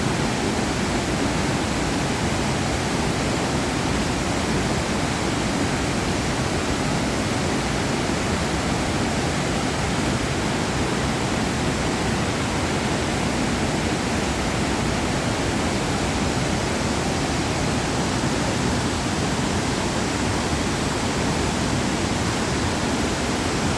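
Dudhsagar Falls, the Mandovi River cascading down a tall cliff face, as a loud, steady rush of falling water.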